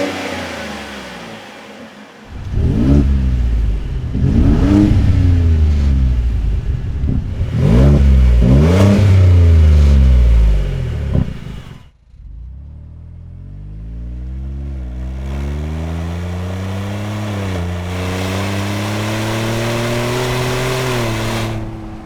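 Ford F-150's 3.5L twin-turbo EcoBoost V6 through a Flowmaster FlowFX cat-back dual exhaust, revved several times, each rev rising and falling, with a long held rev near the middle. After a sudden cut it runs under a steady pull, the pitch climbing slowly with two brief dips, as in accelerating through gear changes.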